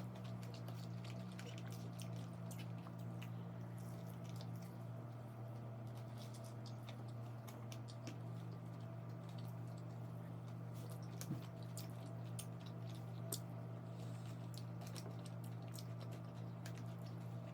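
Close-miked wet chewing and mouth clicks of someone eating KFC fried food, as small scattered squishy ticks over a steady low hum.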